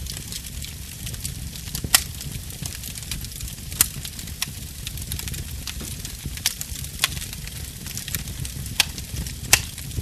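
Burning wood crackling, with a steady hiss and low rumble and sharp pops at irregular intervals, about half a dozen in all.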